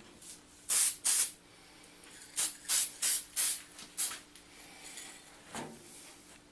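Aerosol spray-paint can sprayed in short bursts, about seven quick hisses one after another over a few seconds, then a fainter, shorter sound near the end.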